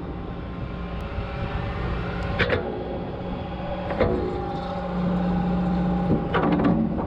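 John Deere 120 excavator's diesel engine running while its hydraulics work the long-reach stick, with a few short clunks about two and a half, four and six and a half seconds in. From about five seconds in a steadier, stronger hum sets in, as a hydraulic function is held under load.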